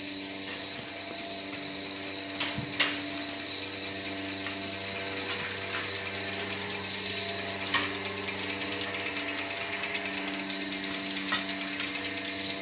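A machine motor running steadily with a hum and a hiss, broken by a few sharp clicks.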